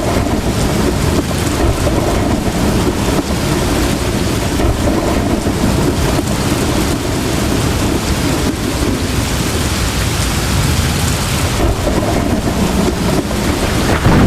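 Heavy tropical rain pouring steadily, with a continuous low rumble of thunder underneath.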